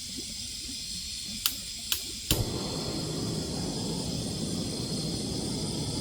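Chorus of grass insects (crickets and katydids) trilling steadily and high-pitched. Three sharp clicks come about one and a half to two and a half seconds in, and with the last one a steady lower rushing sound joins.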